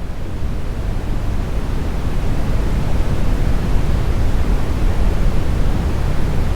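Smoothed brown noise: a steady, deep rumbling hiss with most of its weight in the low end, fading in and growing louder through the first seconds.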